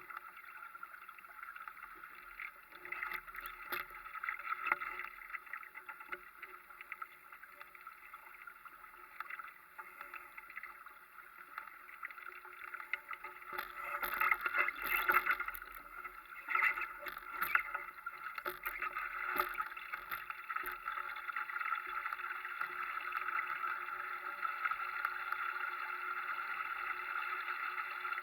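Water rushing along a Europe dinghy's hull as it sails, with scattered knocks and slaps. It grows louder and busier about halfway through.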